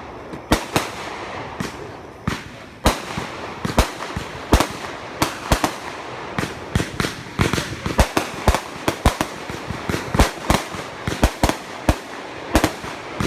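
Consumer 500-gram firework cakes firing: a string of sharp bangs from bursting shells over a steady crackling hiss, a few spaced out at first and then coming thick and fast after about three seconds.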